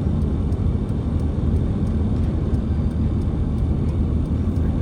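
Steady low rumble of a vehicle on the move, engine and road noise with no change in pitch.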